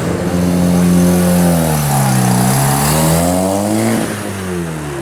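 Car engine being revved. Its pitch sinks about two seconds in, climbs again to a peak near four seconds in, then falls away.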